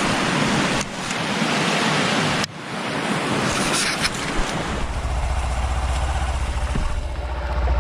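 Wind buffeting the microphone as a broad rushing noise for the first half, then a motorcycle engine idling with a steady low rumble from a little past halfway.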